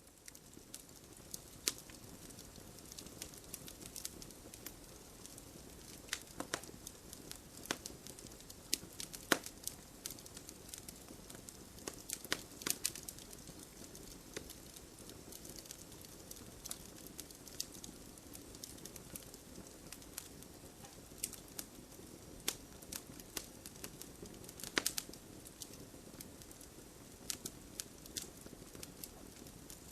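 Campfire logs burning and crackling: frequent sharp pops and snaps, irregular and unevenly loud, over a steady low hiss of the flames.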